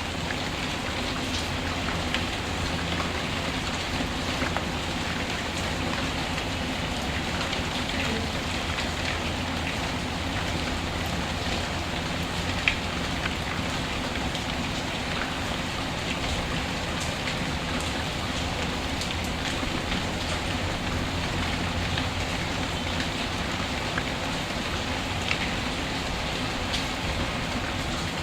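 Steady rain falling, with faint scattered ticks and one sharper click about halfway through.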